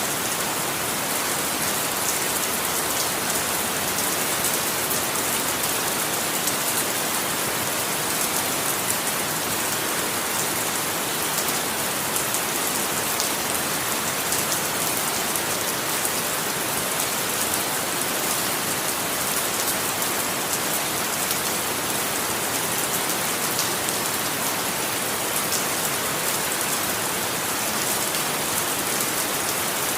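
Steady rain falling on a surface, an even hiss dotted with many small drop ticks, unchanging throughout.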